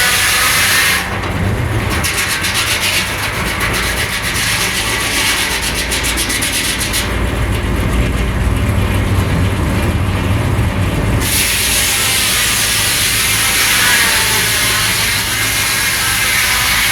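Sawmill running and sawing wood. From about a second in until about eleven seconds the high hiss drops away and a deeper rumble takes over, then the earlier sound returns.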